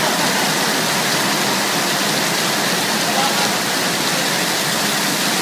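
Heavy rain pouring down in a steady rush of noise.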